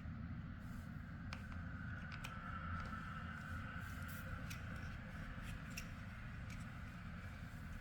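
Plastic building blocks being handled and pressed together: scattered light clicks over a steady low hum.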